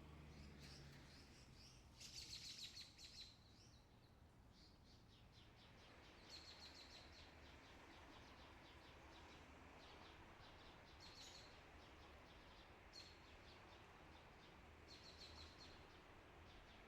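Faint bird chirps: short rapid high trills every few seconds over quiet room tone.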